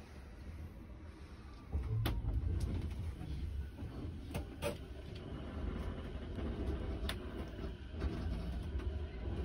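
Inside an electric commuter train rolling slowly: a low rumble comes in about two seconds in and carries on, with a few sharp clicks along the way.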